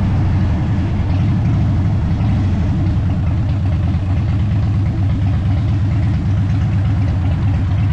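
Motorcycle engine running steadily, loud and close, with an even low pulse and no big revs.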